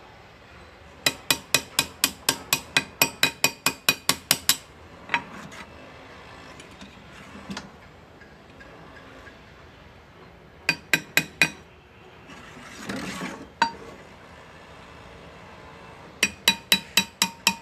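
Hand engraving: a small hammer tapping a graver into metal in quick runs of light, ringing strikes, about five a second, with pauses between the runs. A short rustling burst comes a little after the middle.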